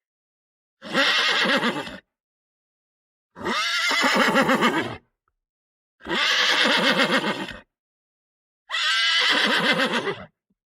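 A horse whinnying four times, each call a second or so long with a fast quaver in its pitch, separated by silence.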